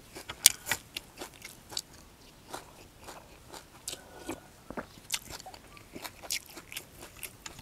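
A man eating close to the microphone: chewing and mouth smacks with a spoon in a soup bowl, heard as a string of short sharp clicks, the sharpest about half a second in.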